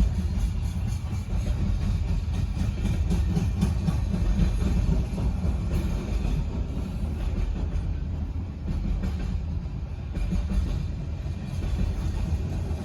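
Coal hopper cars of a BNSF coal train rolling past: a steady low rumble of wheels on rail with some clatter.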